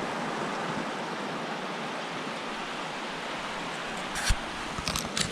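Steady rush of a fast-flowing mountain brook running high with spring water. From about four seconds in there are a few sharp knocks or clicks.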